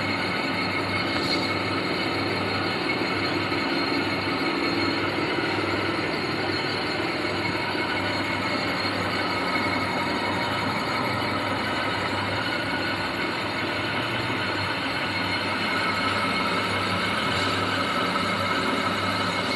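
Metalworking machine running steadily while machining a compressor piston: a constant mechanical drone with a steady high whine over it.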